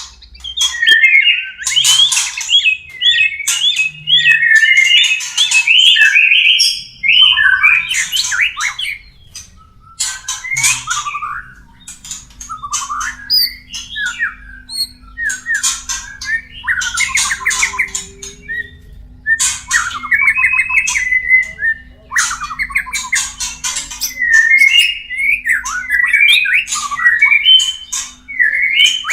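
White-rumped shama (murai batu) mating calls: quick, varied whistled and warbled phrases mixed with harsh scratchy notes, coming in bursts separated by short pauses.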